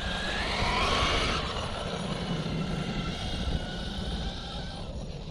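Electric 1/5-scale RC short course truck with a Hobbywing Max 5 G2 800 kV brushless motor on 8S, driving: a motor whine rises in pitch over the first second and a half as it accelerates, then gives way to a steadier rushing noise that fades near the end.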